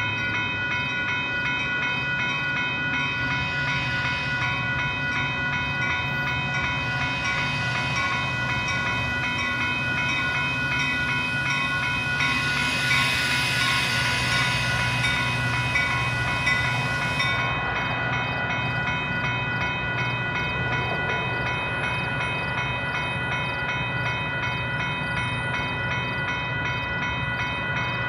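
Metra commuter train pulling slowly into the station, the diesel locomotive pushing at the rear giving a steady low hum, while electronic grade-crossing bells ring steadily in a fast repeating pattern. A hiss rises about twelve seconds in and stops sharply some five seconds later.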